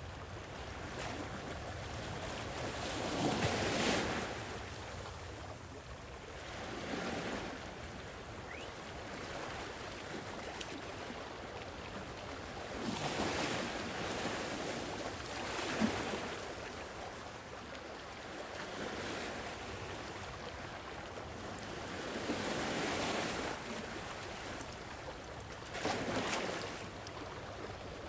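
Gentle sea waves washing onto a shore, each wave swelling and falling away every few seconds over a steady surf hiss.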